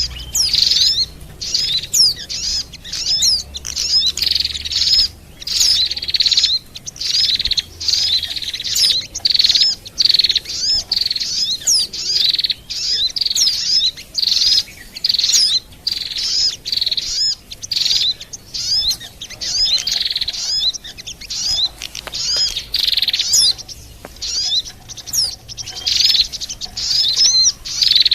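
Bird-lure (pikat) recording of small songbirds, mixing Oriental white-eye, sunbird and prinia calls, chirping and trilling rapidly and almost without pause in dense, overlapping high-pitched phrases.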